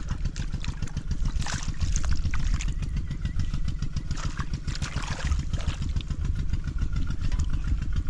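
A small engine running steadily, its low firing pulses continuing at an even pace.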